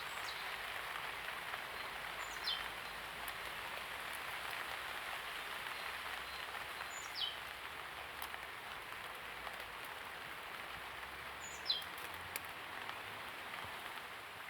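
Steady light rain falling, with a bird giving a short call that slides down in pitch, three times a few seconds apart.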